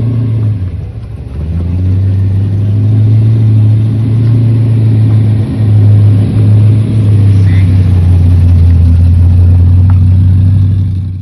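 A car engine with a loud exhaust running at a deep, steady low note. It eases off about a second in and builds back up, then holds.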